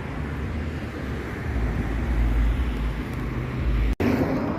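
Steady low rumble of road traffic, with a momentary dropout to silence about four seconds in.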